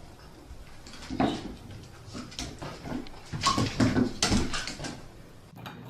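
A pet animal making several short, irregular noises, the loudest group about three and a half to four and a half seconds in.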